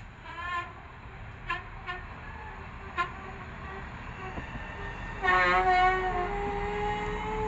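Train horn giving several brief toots, then a louder blast about five seconds in that settles into a steady lower tone, over the low rumble of a train.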